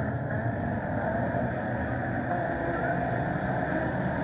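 Engines of a field of scramble race cars running together as the race gets under way at the green flag: a steady, mixed engine noise with a faint rising rev about three seconds in.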